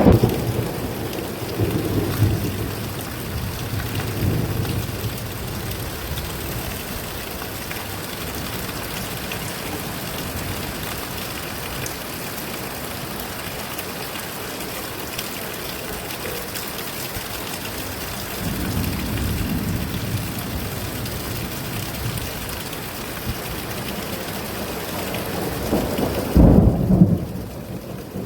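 Steady rain falling, with rolling thunder: rumbles in the first few seconds, another about two-thirds through, and the loudest peal near the end.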